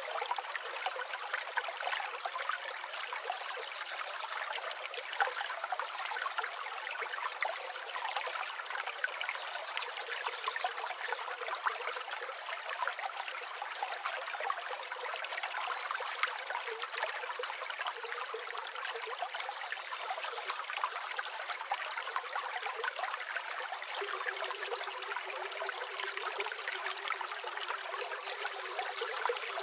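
A river or stream flowing steadily over stones: a continuous babbling, splashing rush of water with nothing in the low range.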